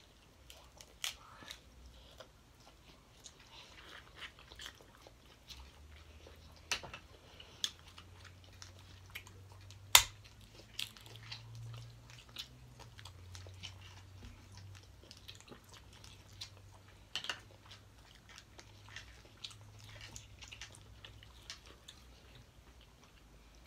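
Close-miked eating sounds: chewing and lip smacks from people eating a seafood boil, with many scattered sharp clicks and cracks, the loudest a single sharp crack about ten seconds in. A faint low hum runs under the middle part.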